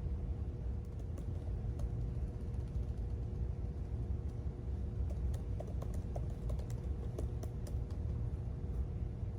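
Typing on a computer keyboard: irregular, light key clicks that come thickest in the middle, over a steady low rumble and a faint hum.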